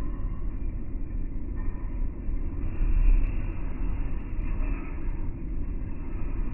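Deep, muffled rumble of a suburban train entering a station, its audio slowed down along with the slow-motion footage, with a swell about three seconds in.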